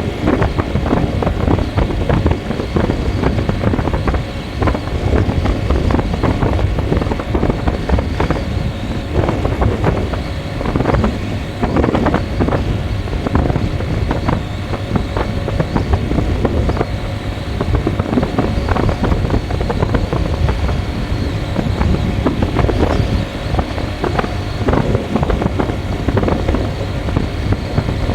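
A motor vehicle driving along a road: a steady engine and road noise mixed with wind buffeting the microphone.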